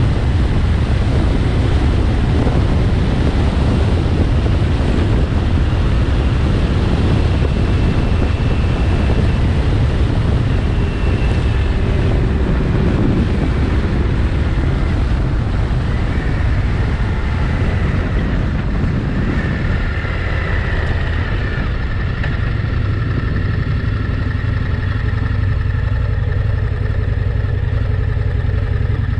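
2025 Indian motorcycle riding, with wind buffeting the microphone. About two-thirds of the way through, the wind noise eases and a steady engine tone comes through more clearly.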